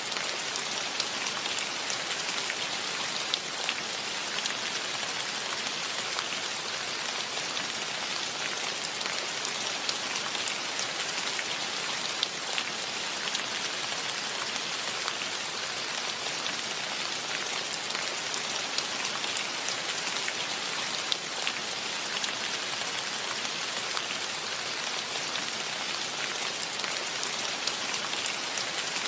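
Steady rain falling, an even hiss with many single drops landing close by as sharp little ticks scattered through it.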